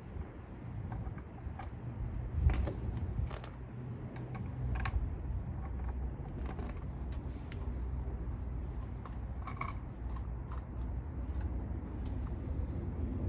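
Scattered light clicks and clinks of tools or parts being handled, over a steady low hum. The sharpest click comes about two and a half seconds in.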